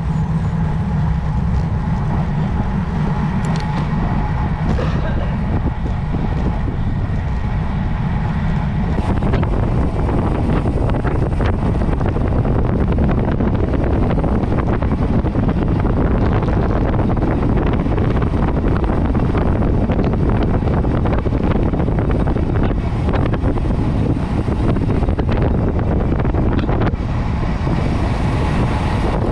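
Wind rushing over the microphone while riding a road bike, a steady noise that gets stronger about nine seconds in as the speed picks up.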